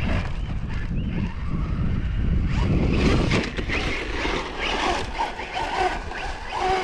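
Electric RC truck running over dirt and gravel, motor whine and tyre noise rising and falling, with a heavy low rumble of wind on the microphone.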